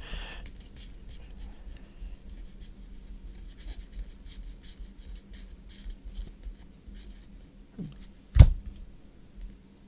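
2016 Prestige football trading cards being flipped and slid through hands, with a run of faint clicks and rustles and one sharp knock a little over eight seconds in.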